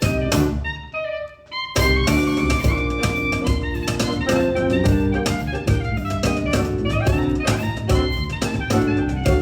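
Live ensemble music: a few short accented chords with brief gaps, then about two seconds in the full band comes in and plays on with a steady beat.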